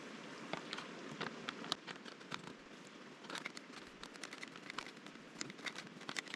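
Scattered light clicks and crackles of camp dinner being prepared, over a steady hiss.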